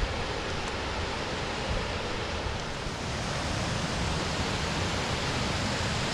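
Steady rushing of the Krupa River's waterfalls cascading over limestone.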